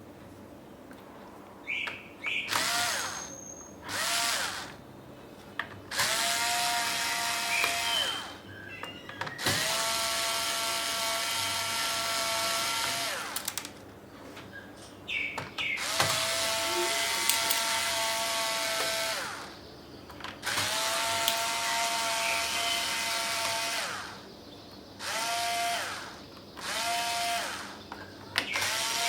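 Small electric screwdriver whirring in repeated runs as it backs screws out of a laptop's case. Each run spins up and winds down; some last a few seconds and others under a second, with short pauses between.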